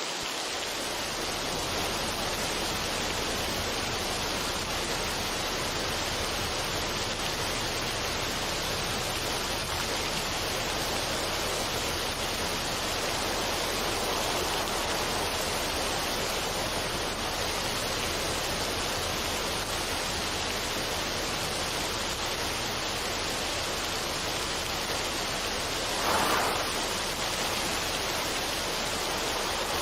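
Steady rushing noise, even across high and low pitches, like a waterfall or stream ambience, with no music; it swells briefly near the end.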